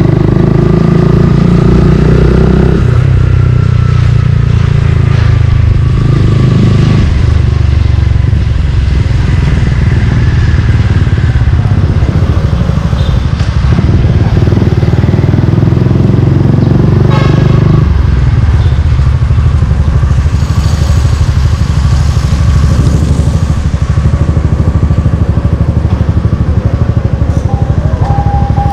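Suzuki Gixxer 155's single-cylinder engine running through a Yoshimura exhaust while riding. The engine note rises and falls in steps with throttle and gear changes.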